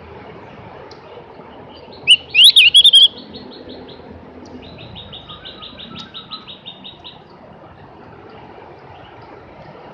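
Javan grey-throated white-eye (opior jawa) singing: a loud, quick warbling phrase about two seconds in, followed by fast, even trills of repeated notes that stop about seven seconds in.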